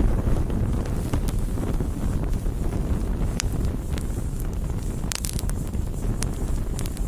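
Wood campfire burning: a steady low rumble with scattered sharp crackles and pops of burning wood, and a quick run of them about five seconds in.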